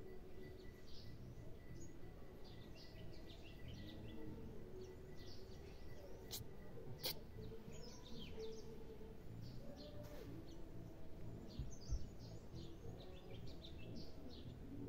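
Small birds chirping repeatedly over a steady low outdoor background, with two sharp clicks about six and seven seconds in.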